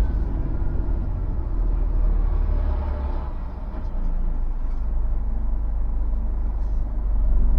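HGV tractor unit's diesel engine running at low speed with a steady low rumble while the articulated truck is manoeuvred into a parking space.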